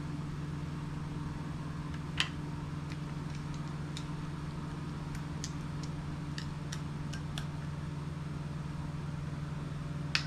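A steady low hum with scattered light clicks of hand tools working the water pump housing bolts on an outboard lower unit, one sharper click about two seconds in, as the bolts are tightened down.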